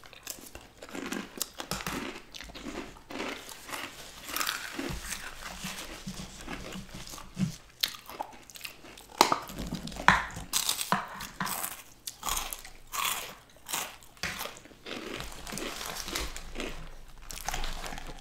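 Close-miked chewing and crunching of food, with irregular crisp crunches, the loudest about halfway through.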